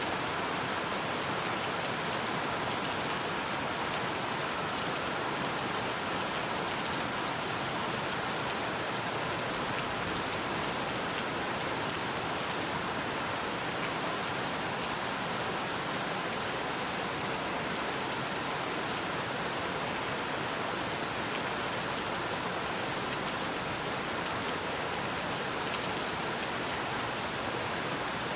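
Steady rain falling: an even hiss with many faint, scattered drop ticks.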